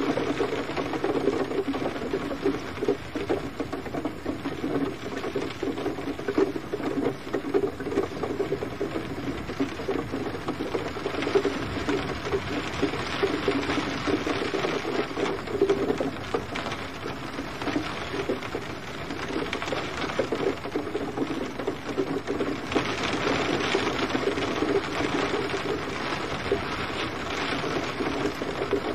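Steady gentle rain: a dense, continuous patter of drops, a little heavier in the last few seconds.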